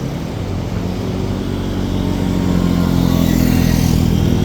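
Four-wheeler (ATV) engine running and coming closer, growing steadily louder.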